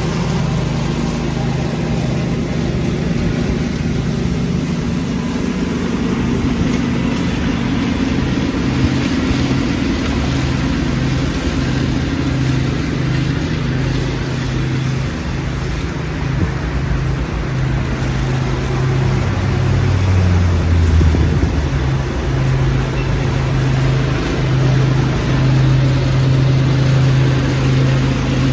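Lawn tractor engine running steadily while vacuuming leaves, with a constant rushing of air and debris. About two-thirds of the way through its pitch sags briefly, then comes back up.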